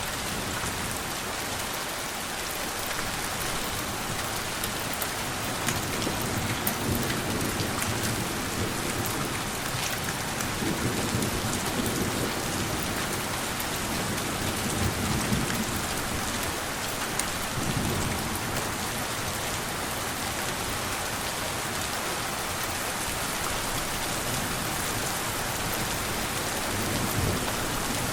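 Steady rain falling, a dense even patter, with soft low rumbles of distant thunder swelling and fading a few times in the middle.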